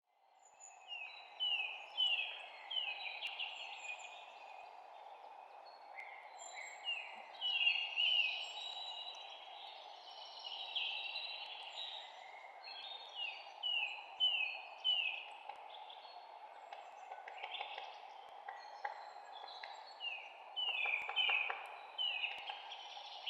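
Several songbirds chirping and singing in quick runs of short falling notes, over a steady background rush.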